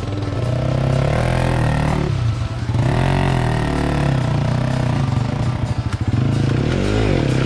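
Motorcycle engine running under load, its revs rising and falling again and again.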